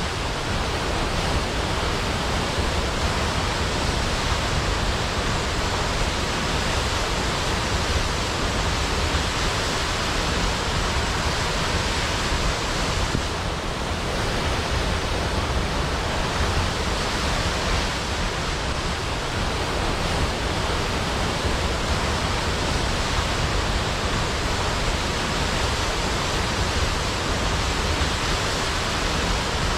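Large waterfall: a steady rush of falling water with a deep low rumble, unbroken throughout.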